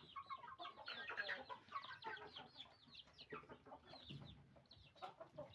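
A flock of chickens calling and clucking, many short overlapping calls, several falling in pitch.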